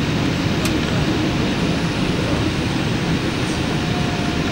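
Steady rush of jet engine and airflow noise from a Boeing 787-8 with Rolls-Royce Trent 1000 engines in flight during the landing approach, even throughout with its weight in the low end.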